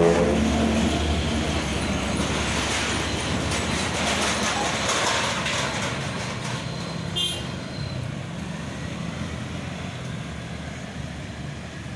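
Road traffic noise of a heavy vehicle, most likely a truck, passing close by. It is loudest over the first few seconds and then fades away. A brief high chirp sounds about seven seconds in.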